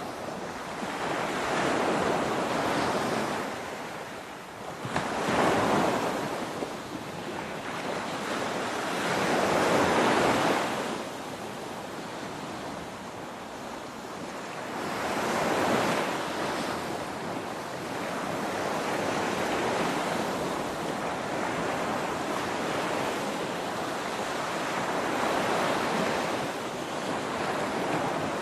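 Ocean waves breaking on a shore: a continuous wash of surf that swells and eases every few seconds as each wave crashes and draws back.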